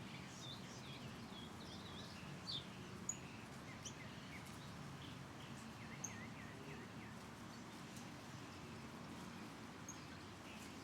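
Birds chirping: many short, high chirps and whistles, several overlapping, over a faint steady background noise.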